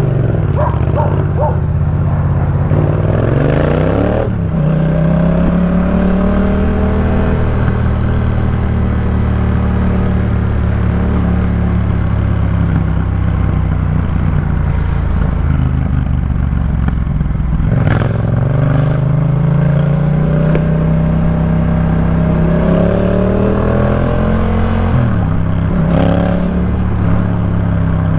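Yamaha MT-07's parallel-twin engine running through a Jeskap K4 full exhaust while riding. Its revs climb about three seconds in and cut off sharply just after four seconds. It pulls up again around eighteen seconds and near twenty-five seconds.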